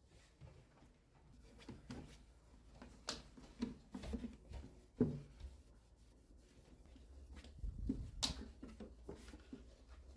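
Scattered light knocks and clicks of household objects being handled and set down, about a dozen over a few seconds, over a faint low hum.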